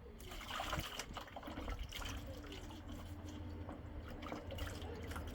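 Water running and splashing, with small clicks and knocks mixed in.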